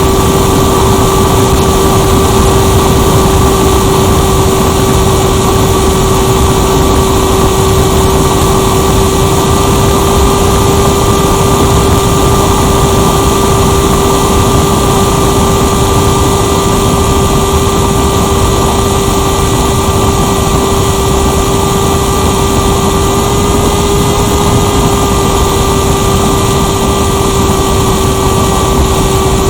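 Motor of a 2-metre RC motor glider running at a steady pitch, heard from a camera on board with air rushing past; the pitch rises slightly for a moment about three-quarters of the way through.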